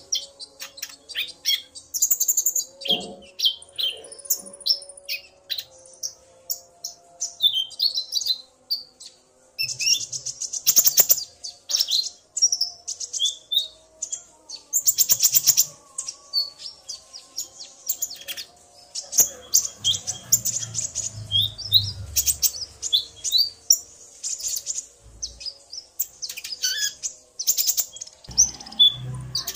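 Kolibri ninja (konin) sunbirds calling back and forth, a male and a female, in a fast stream of thin, very high chirps, squeaks and short rattling trills. The male is singing hard in answer to the female's calls.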